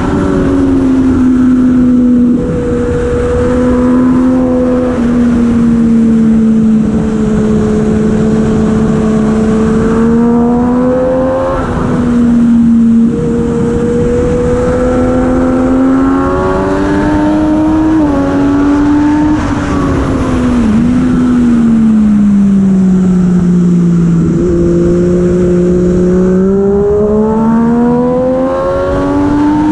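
A heavyweight superbike's engine running hard at racing speed, its note sagging and climbing again as the throttle and gears change, with short breaks in the note about 2, 12 and 20 seconds in. There is a steady rush of wind noise underneath.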